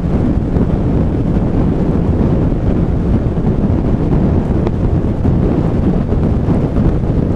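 Steady low rumble of travel on a rain-soaked highway: tyre and wind noise with no breaks or changes.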